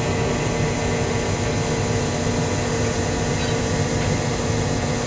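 Model locomotive running on the layout track with its train: a steady engine rumble with a constant hum.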